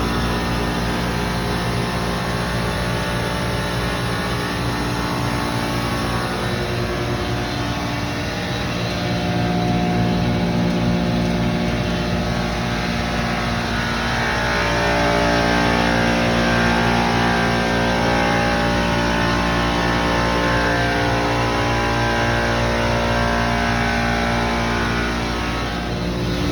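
Commercial chiller running, a steady machine hum from its compressor and fans with many steady tones, shifting slightly a few times.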